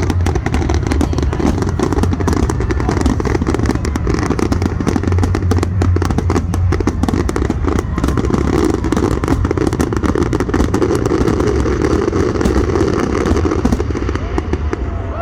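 Fireworks going off in a dense, continuous volley of bangs and crackles over a steady low rumble.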